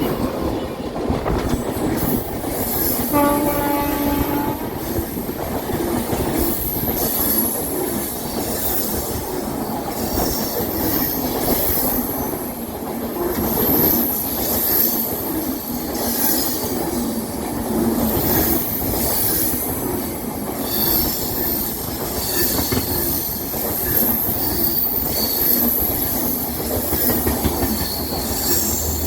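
A train passing on a curve: its wheels squeal steadily against the rails and rattle over the track joints, with a short horn blast about three seconds in.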